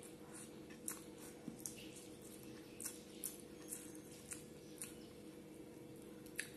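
Close-up mouth sounds of eating rice and curry by hand: chewing with a string of short wet lip smacks, about one every half second, over a faint steady hum.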